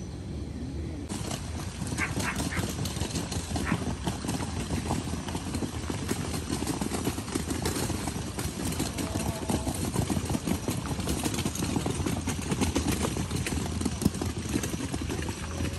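Rain pattering steadily in many fine drops, coming in about a second in, over a low rumble of wind.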